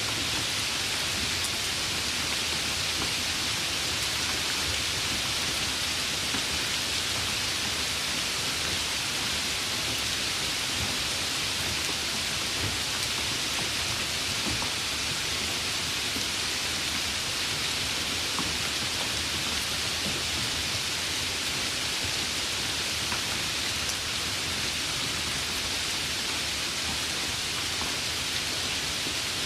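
Steady rain: an even hiss with faint scattered drop ticks, unchanging throughout.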